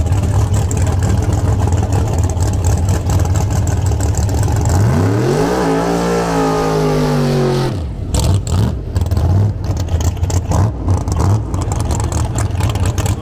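Drag-racing car engines: a loud, steady run, then an engine revving with its pitch climbing steeply and levelling off, which cuts off suddenly about eight seconds in. After that, an uneven, choppy engine rumble.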